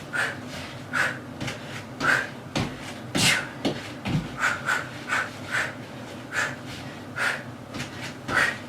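Hard, forceful breathing during a kickboxing combo of punches, knee drives and kicks: a short, sharp exhale with each strike, over a dozen in quick succession, with a few dull thumps among them.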